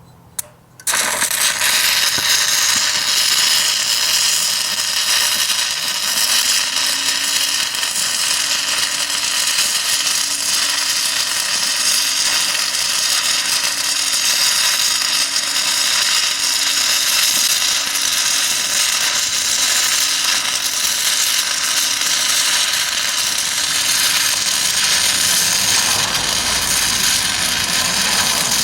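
Stick-welding arc from a 6010 electrode on DC, fed by a Miller Syncrowave 210: the arc strikes about a second in and then runs as a steady, loud crackle.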